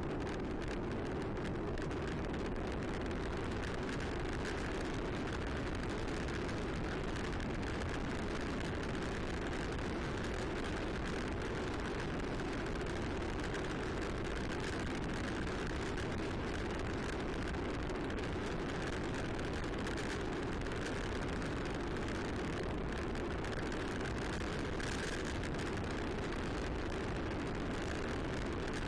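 Steady rushing noise of air and tyres while riding a bicycle, with wind on the microphone, at an even level throughout.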